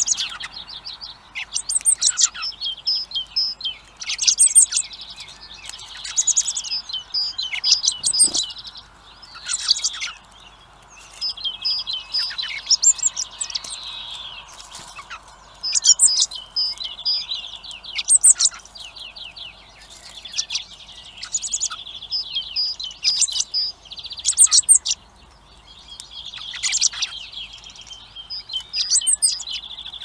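Small birds chirping and calling in repeated high-pitched bursts of short notes and quick trills, one burst every second or two.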